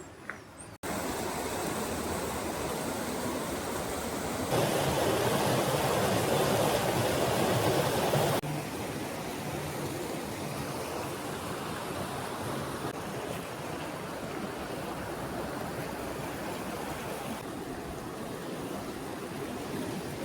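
Steady rushing of flowing water, as from a stream or waterfall. It cuts in suddenly about a second in, grows louder for about four seconds from around four and a half seconds, then drops back to a steadier, softer rush.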